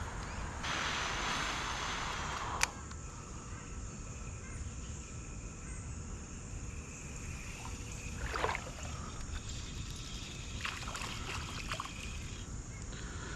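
Outdoor creek ambience on an action camera while wading: a steady low rumble, with a louder hiss for about two seconds near the start that cuts off suddenly, and a few light knocks.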